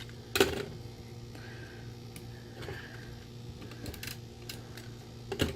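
Hands handling paper craft pieces and a Snail adhesive tape runner at a desk: light clicks and brief rustles, with two sharper knocks, one just after the start and one near the end, over a steady low hum.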